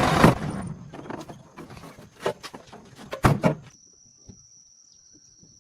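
Scattered clicks and knocks, with louder knocks about two and three seconds in. A faint, steady, high insect trill, crickets, then takes over.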